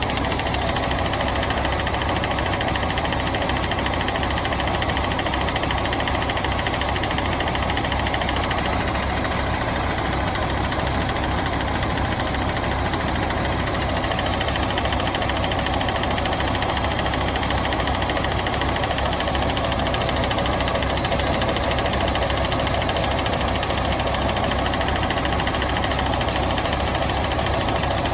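A bus's diesel engine running steadily at idle while it warms up.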